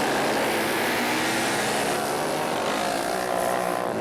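Several flat-track racing motorcycles running at speed, their engine notes overlapping in a steady, loud drone.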